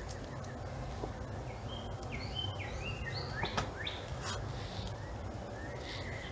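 A songbird singing a quick run of short chirping notes, some gliding up or down, with a single sharp click partway through.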